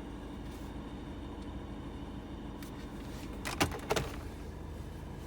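Car air conditioning blowing steadily in the cabin, with two sharp clicks at about three and a half and four seconds in.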